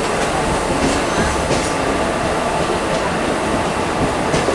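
Electric multiple unit (EMU) local train running, heard from its open doorway: a steady rumble of wheels on rail, with a few clicks as the wheels pass over rail joints and points.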